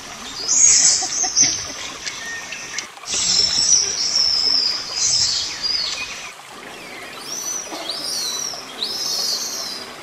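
Birds calling in the forest: shrill bursts of calling, then several high chirps that rise and fall.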